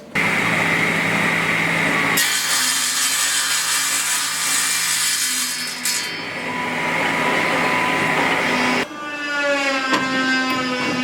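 Workshop power tool running under load, grinding or sawing with a steady hum beneath a rough noise that changes abruptly twice. It cuts off sharply near the end, and a motor whine rises in pitch as something spins up.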